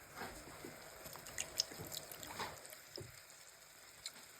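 Coconut milk being poured into a pan of curry: faint dripping and splashing of liquid.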